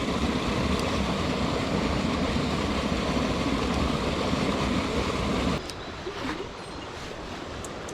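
Steady rush of flowing stream water, which suddenly drops to a quieter level about five and a half seconds in.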